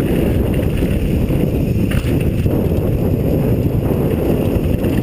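Wind buffeting a moving rider's microphone, a loud, even rumble with the rattle and crunch of tyres over a rough trail beneath it.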